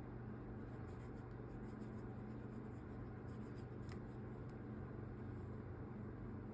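Faint rustling and scratching of hands working thread hair and glue on a handmade doll, with one small click about four seconds in, over a steady low hum.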